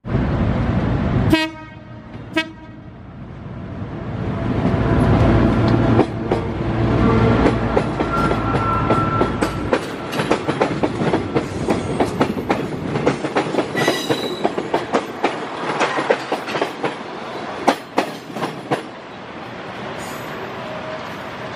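A green-and-white KAI diesel multiple-unit passenger train passing close by: two short horn blasts near the start, then the train's rumble builds and its wheels clack over the rail joints in a fast run of clicks that thins out near the end. Wind buffets the microphone.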